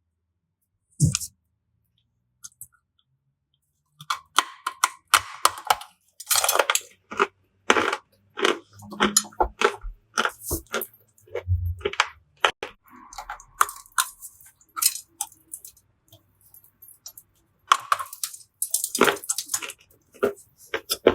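Dry clay and chalk pieces crunching and crumbling close up. One sharp crack comes about a second in, then from about four seconds an irregular run of crisp cracks and crackles, densest near the end.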